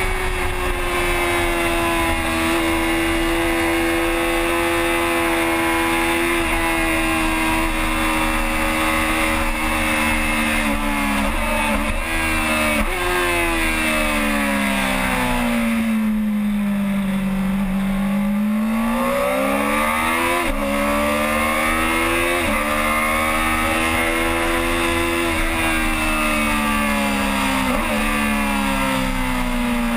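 Yamaha R6 inline-four 600 cc sports-bike engine at race pace: revs held high, then dropping through quick downshifts to a low point near the middle as it slows for a corner, climbing back through the gears, and easing off again near the end.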